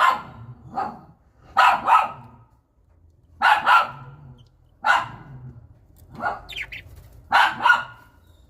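A dog barking repeatedly, single and double barks coming about every second or two.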